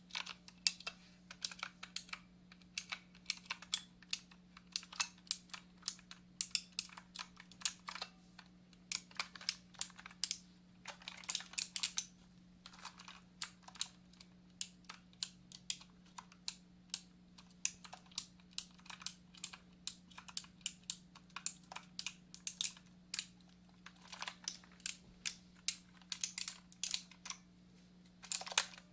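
Computer keyboard being typed on: a steady, irregular run of key clicks, several a second, over a faint low hum.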